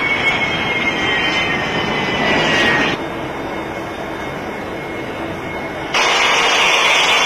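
Airliner engines running loud, with a thin high whine that slowly falls in pitch. The sound drops abruptly about three seconds in and comes back just as abruptly about six seconds in.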